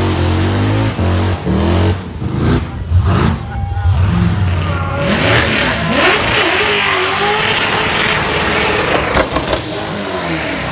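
Burnout car's engine held flat out at a steady high pitch, then a car revving up and down under a loud wash of noise. The commentator says this car's burnout hesitated with no drive to the rear wheels.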